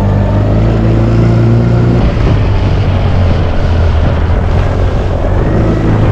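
Boat's outboard motor running as the boat heads out on the water: a steady low engine tone that changes about two seconds in, with a rushing wind-and-water noise over it.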